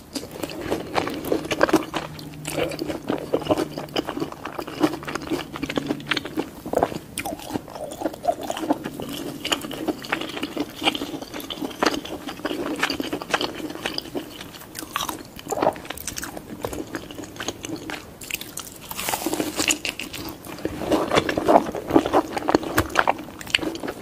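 Mouth sounds of a toddler gnawing and sucking on the skin of a whole roast pig's head: irregular wet clicks, smacks and crunches, busiest near the end.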